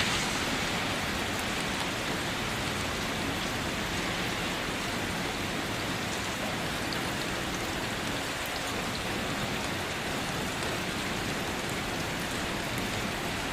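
Steady heavy rain drumming on a car, a dense even hiss of drops with a few sharper individual taps.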